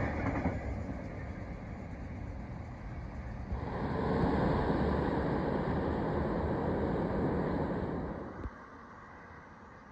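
A wood chip train rolling past and fading away over the first few seconds. Then a louder, steady vehicle-like noise sets in and cuts off abruptly about eight and a half seconds in.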